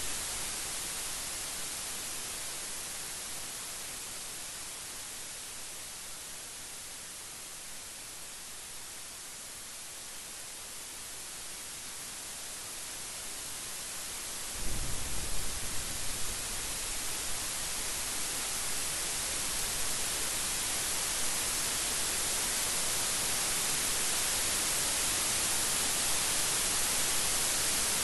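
Steady rain hiss, with the low rumble of a thunder roll dying away at the start. About halfway through, a new rumble of thunder breaks in, and the rain grows louder toward the end.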